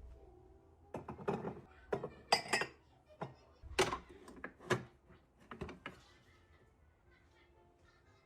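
Dishes and cutlery being handled, a string of sharp clinks and knocks, some ringing, from about a second in until about six seconds in.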